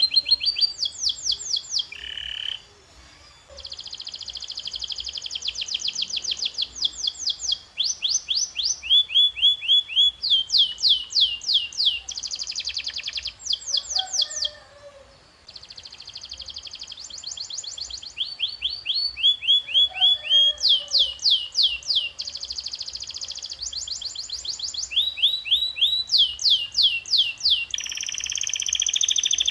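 Domestic canary singing: fast trills of quickly repeated sweeping notes, switching from one trill pattern to the next every few seconds, with two brief pauses.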